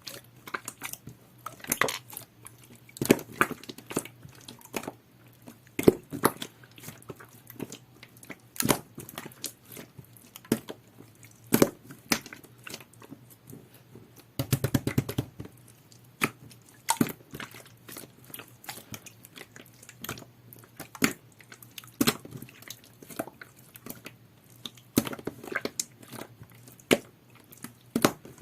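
Yellow clear jelly-textured slime being pressed and poked by hand, giving irregular sticky pops and clicks, with a denser run of squishing about halfway through.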